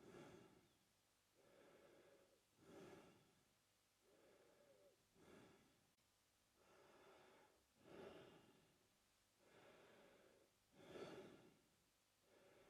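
A man breathing slowly and steadily through his mouth: each breath is a longer, softer rush of air followed by a shorter, louder one, about one full breath every two and a half to three seconds. The breathing is quiet and evenly paced.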